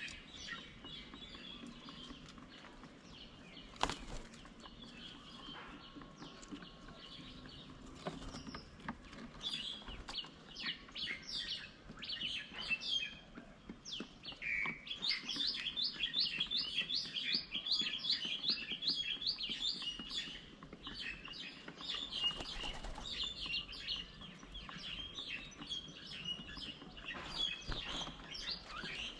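Several songbirds chirping and calling, with a fast run of repeated high notes, about three or four a second, in the middle. A single sharp knock about four seconds in.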